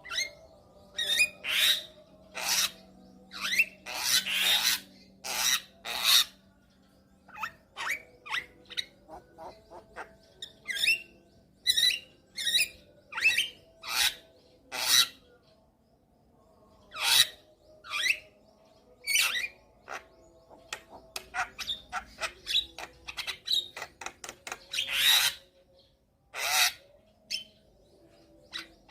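Javan myna (jalak kebo) singing: a rapid, varied run of short, harsh chattering and squawking notes mixed with brief whistles.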